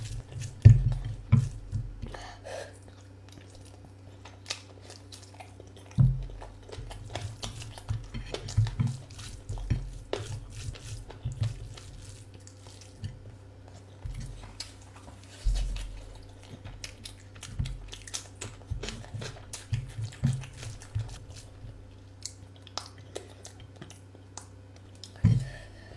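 A person chewing and biting food close to the microphone, mukbang-style. The sound is a run of irregular mouth clicks and soft low thumps, with a few sharper bites.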